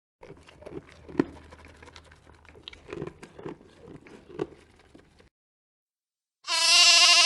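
Soft, irregular clicks and low grunting sounds, then after a short pause one loud, wavering bleat lasting about a second near the end.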